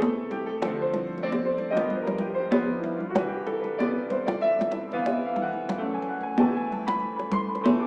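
Piano music: an instrumental piece of struck notes and chords played at a steady, moderate level.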